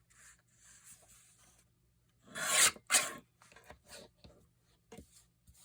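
Paper being handled and slid across a work surface: two short, loud scrapes in the middle, with lighter rustling before and after.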